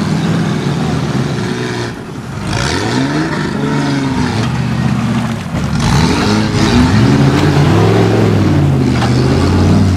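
Off-road 4x4's engine revving hard while the vehicle works through a steep ditch, its pitch rising and falling again and again.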